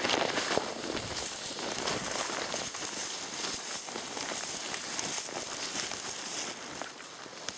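Continuous crunching and crackling of footsteps on frozen forest ground.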